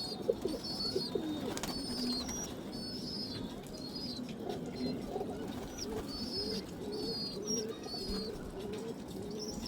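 Pigeons cooing, low and wavering, under a string of short high chirps that repeat about every half second, with a few sharp clicks in between.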